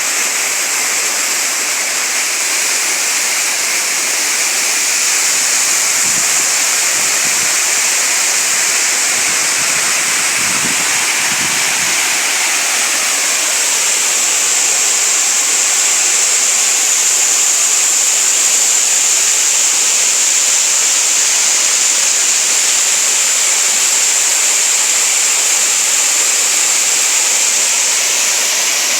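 Waterfall and rushing stream water, a steady loud hiss of falling and flowing water.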